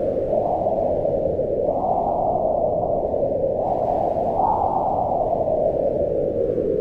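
Wind blowing in slow gusts: a low, steady rushing that swells about two seconds in and again about four and a half seconds in, then eases.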